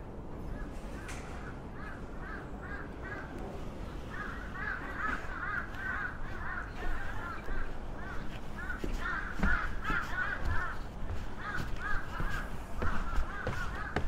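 Birds calling in rapid runs of short, harsh, crow-like notes, in bouts that grow louder about four seconds in. Footsteps on stone stairs thud now and then in the second half.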